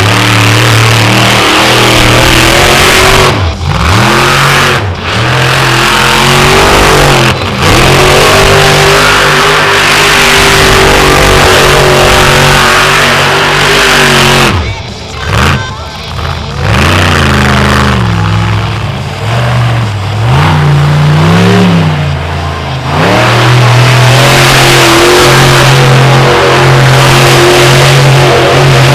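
Monster truck engine revving hard and held at high revs while the truck spins donuts. The throttle lifts briefly several times, with a longer lull about halfway through, each time followed by the revs climbing again.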